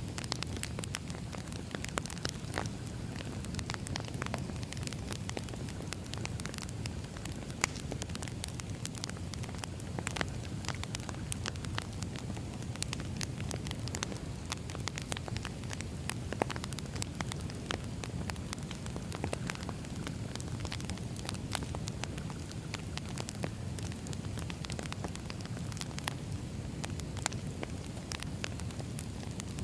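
Campfire crackling: a steady low rumble of burning with frequent, irregular sharp pops and snaps.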